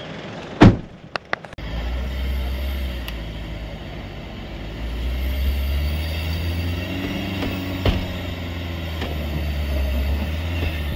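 A sharp thump just under a second in, then the engine of a four-wheel drive towing a caravan runs under load, trying to drive out of deep mud while people push. Its pitch rises midway as it revs harder.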